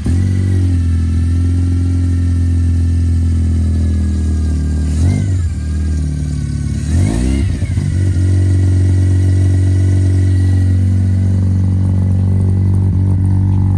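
A car engine, just started, idling steadily, with two short blips of the throttle, the first about five seconds in and the second about two seconds later, before settling back to idle.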